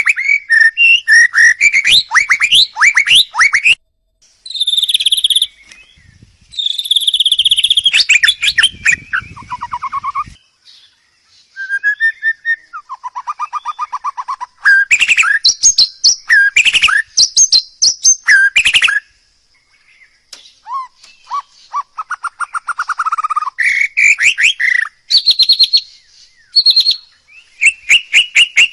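A songbird singing loud, varied phrases of fast trills, clear whistles and rapidly repeated notes, with short pauses between bursts.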